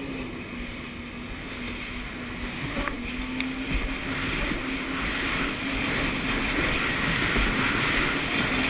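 Jet ski engine running steadily, growing gradually louder.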